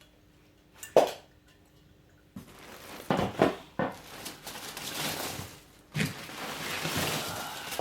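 Packaging rustling and crinkling with a few knocks as metal exhaust pipe parts are handled and unpacked; a single sharp knock comes about a second in, before the rustling starts.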